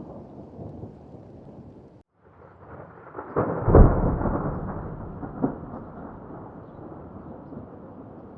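Thunder rumbling, dropping out abruptly about two seconds in, then a loud crack of thunder that rolls off into a long, slowly fading rumble, with a second, shorter clap a couple of seconds later.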